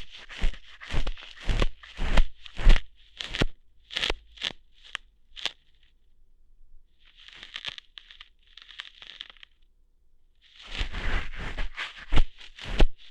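Close-miked ASMR ear-hair plucking: sharp crackly snaps and rips right at the microphone, about two a second for the first five seconds. After a short pause come softer scratchy rustles, and after another pause a dense run of scratching and crackling with a few loud snaps near the end.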